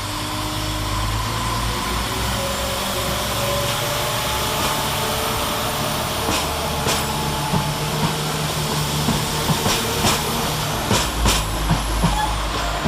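A pair of Class 172 Turbostar diesel multiple units pulling away with engines under power. From about halfway in, the wheels click over the track joints, the clicks coming faster as the train gathers speed.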